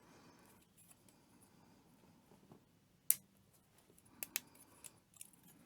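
Sharp clicks of small plastic model-kit parts being worked by hand: one loud click about three seconds in, then a quick pair of clicks about a second later and a few softer ticks near the end.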